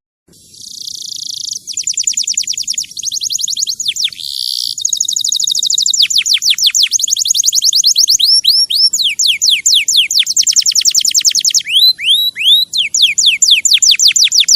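A songbird singing a loud, fast song of rapid downward-sweeping whistled notes, with buzzy trills, repeated in quick runs.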